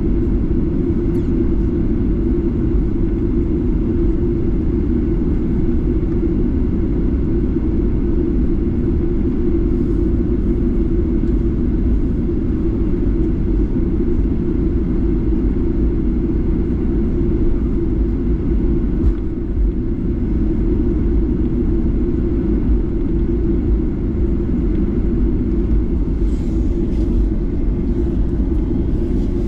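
Boeing 737-8's CFM LEAP-1B jet engines running steadily, heard from inside the cabin near the engine as a loud, even low rumble.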